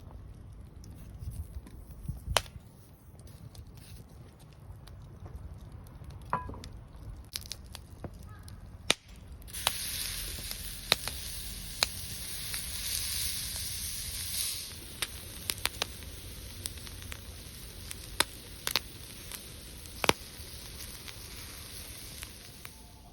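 Wood fire crackling in a Primus Kamoto open fire pit, with sharp isolated pops every second or two. A steady hiss rises about ten seconds in and stops about five seconds later.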